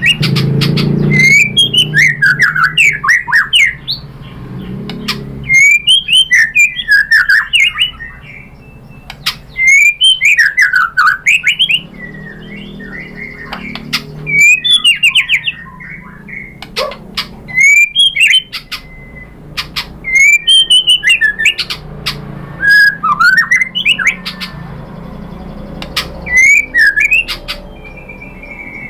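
White-rumped shama (murai batu) singing: loud, varied whistled phrases mixed with sharp clicking notes, a new burst every few seconds, over a low steady hum.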